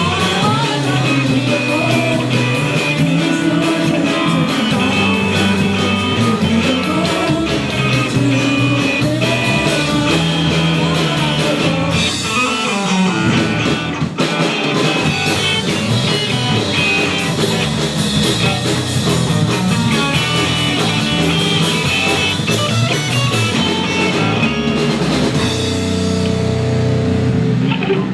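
Live rock band playing: electric guitar, bass and drum kit with singing, loud and steady, ending right at the close.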